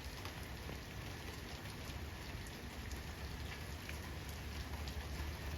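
Steady rain falling, with scattered individual drops ticking through the hiss and a low rumble underneath.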